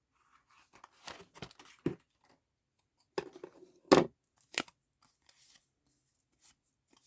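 Die-cut cardstock pieces being popped out of their sheet and their leftover nicks snipped off: short, crisp paper snips and tears in two clusters, the loudest about four seconds in.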